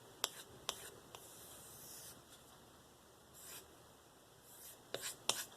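Faint strokes of a knife edge being drawn across a balsa strop loaded with 5-micron diamond paste: soft scraping strokes, with a few light clicks near the start and again near the end.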